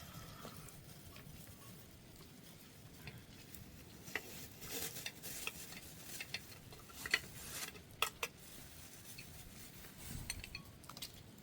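Scattered light clinks and scrapes of kitchenware being handled, with a couple of sharper clicks about two-thirds of the way in.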